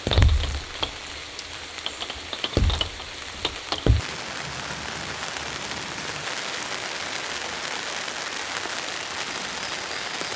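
Steady rain falling, an even hiss across the whole range. In the first few seconds, three loud dull thuds stand out over it, about a second in, at about two and a half seconds and near four seconds.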